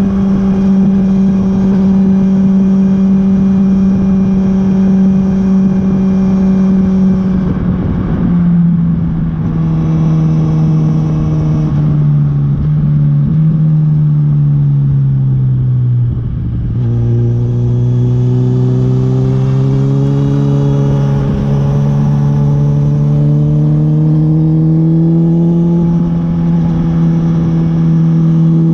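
Honda CB1000R's inline-four engine under way: a steady note that drops about a third of the way in and sinks further as the bike slows, then climbs again gradually as it picks up speed.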